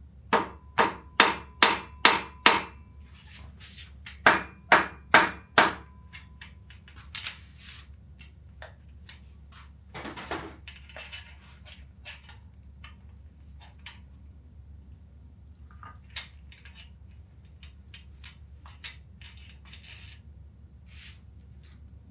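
Rubber mallet striking the main bearing caps of a GM 8.1L V8 block to knock them loose: a quick run of six blows, a short pause, then four more. After that come lighter metallic clinks and a duller clunk as the loosened parts are handled.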